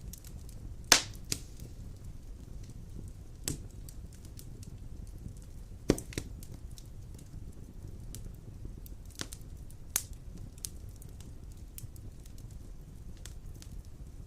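Large logs burning in a stone fireplace: a steady low rumble of flames with irregular sharp crackles and pops, the loudest about a second in and about six seconds in.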